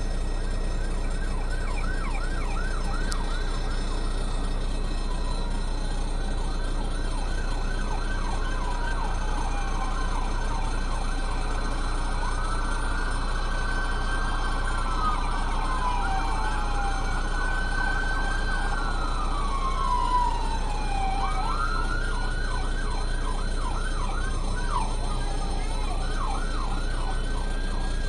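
Police car sirens, a fast yelp alternating and overlapping with a slower rising-and-falling wail, over steady engine and road noise.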